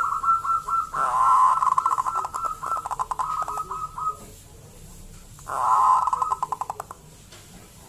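Zebra dove (local perkutut) cooing: a rapid series of short, pulsed coos, given in two bouts with a pause of about a second and a half between them.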